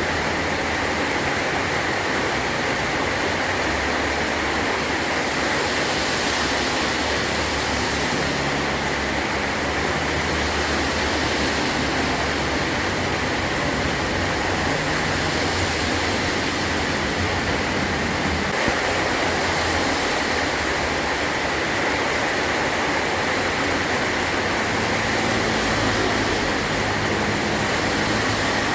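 Heavy rain falling steadily on a metal tin roof: a dense, even hiss that does not let up, with a low, uneven rumble underneath.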